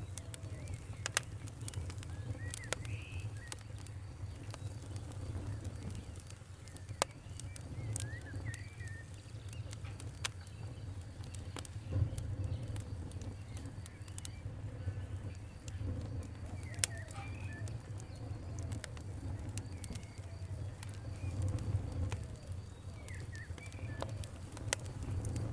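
Fire crackling: sharp pops and snaps every second or so over a low steady rumble, with a short bird chirp every five or six seconds.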